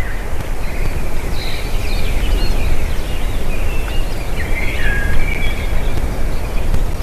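Birds calling: a scatter of short chirps and whistles, over a steady low rumble of wind noise.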